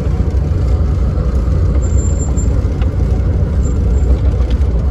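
Suzuki Samurai driving off-road, its engine and running gear making a steady low rumble.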